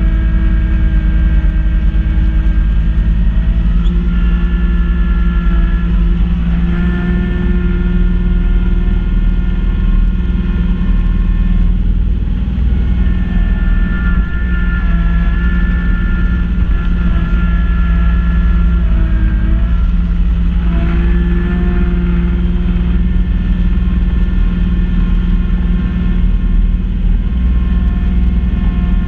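Kubota B2650 compact tractor's diesel engine running steadily at working speed, driving a front-mounted B2782 snow blower through its PTO, with a steady whine from the blower. The pitch dips briefly twice, as the engine loads up in the snow and recovers.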